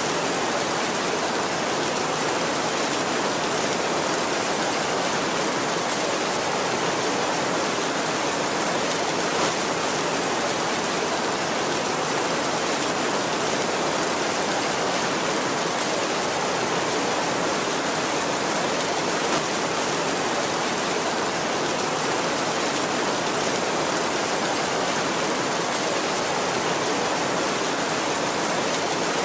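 Heavy rain falling steadily on a tin roof: an even, unbroken hiss.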